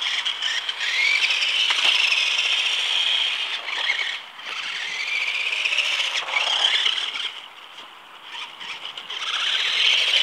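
A radio-controlled car's motor whining at high pitch, rising and falling as the car speeds up and slows. It drops away briefly about four seconds in and again for a moment near the end before picking up once more.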